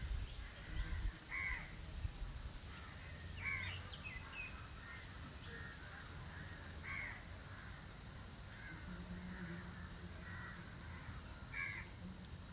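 Outdoor bird calls: four louder single calls spread a few seconds apart, with fainter calls in between.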